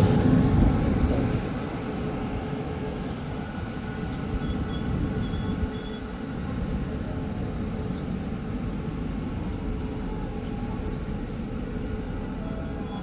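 Train rumble fading over the first couple of seconds as it moves away, then a steady low rumble carries on.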